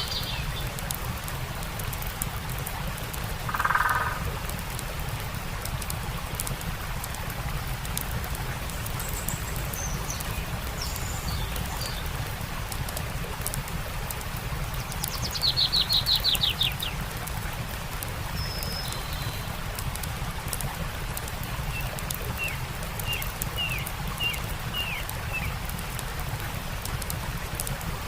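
Steady rush of a forest stream with faint campfire crackles and scattered birdsong: a short low call about four seconds in, a loud rapid trill of falling notes around the middle, and a run of short chirps near the end.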